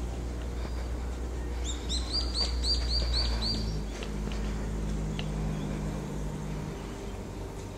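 A small bird calling a quick run of about eight rising-and-falling chirps, about four a second, a couple of seconds in, over a steady low hum.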